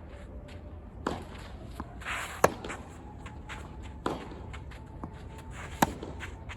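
Tennis rally: rackets striking the ball four times, roughly every one and a half to two seconds, the strikes alternating fainter and louder.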